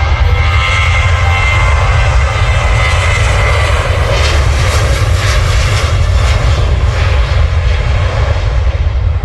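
Loud jet noise from a Ryanair Boeing 737-800's CFM56 turbofans as the airliner passes close by. A heavy low rumble sits under a thin fan whine that slowly drops in pitch, and the high hiss thins out near the end.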